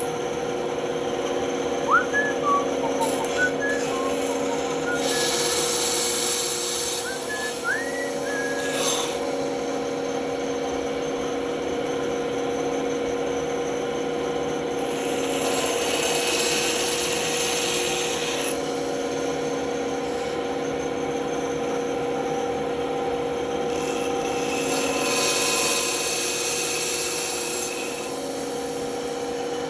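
Band saw running with a steady hum while its blade cuts into a workpiece in three passes, about five, fifteen and twenty-four seconds in, each lasting a few seconds. A few short squeaks and clicks come in the first nine seconds.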